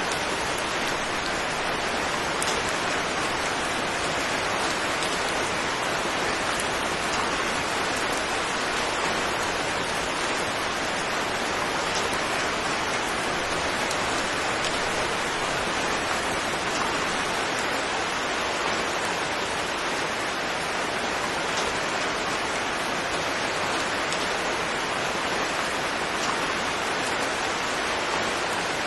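Steady heavy rain falling, an even rushing hiss with faint scattered drop taps.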